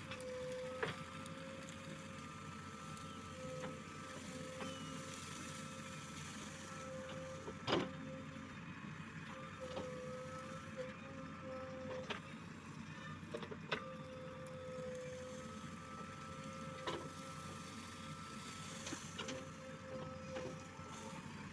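JCB 3DX backhoe loader working, its engine running steadily under a wavering hydraulic whine. There are several sharp knocks, the loudest about eight seconds in.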